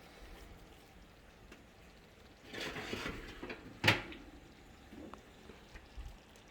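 Kitchen handling sounds: a short rustling scrape, then a single sharp knock about four seconds in, like a cupboard or door shutting, with a few small clicks after.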